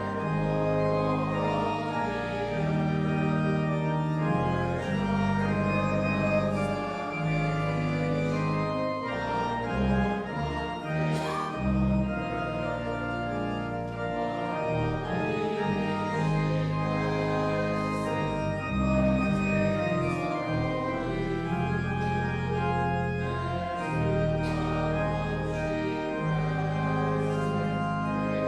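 Church organ playing held chords over low pedal notes, the chords changing every second or two.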